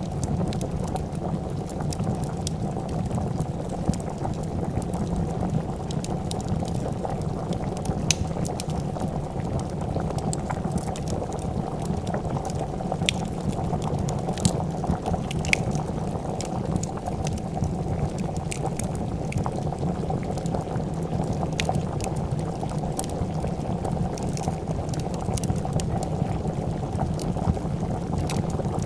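A pot of soup bubbling steadily at a boil, with scattered sharp pops and crackles from a wood fire.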